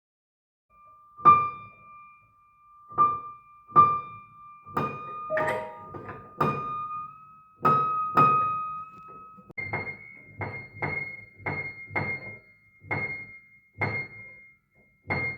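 Piano being tuned: one high note struck again and again while its pitch is nudged slightly upward, then, about nine and a half seconds in, a higher note struck about twice a second. Each strike carries a low thump from the key and hammer action.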